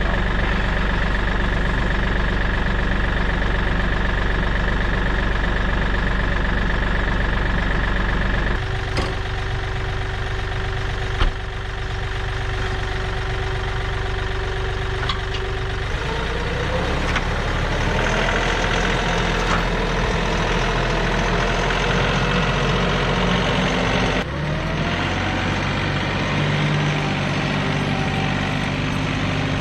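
A motor vehicle engine runs steadily across several cut-together shots, its pitch rising briefly twice as it revs up.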